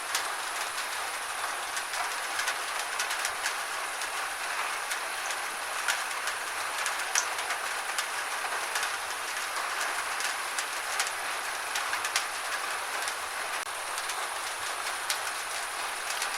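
Gentle steady rain: an even hiss with scattered sharp ticks of drops striking a surface at irregular intervals.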